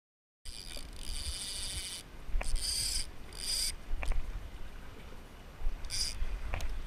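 Fishing reel drag buzzing out line in about five short bursts, as a fish pulls against it, over a low rumble of wind on the microphone, with a few sharp clicks.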